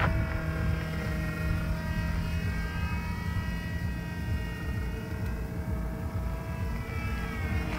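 Radio-controlled model airplane's engine running in flight, its pitch drifting up and down as it flies around, over a low rumble.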